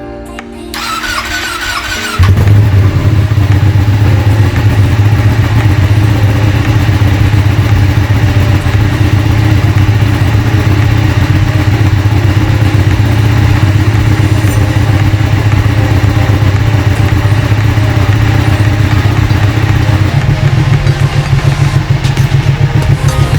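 Ducati Panigale's Superquadro V-twin being started: the starter whines for about a second and a half, then the engine catches and idles steadily. It is being warmed up so the oil will drain easily. Near the end the idle note changes and pulses more strongly.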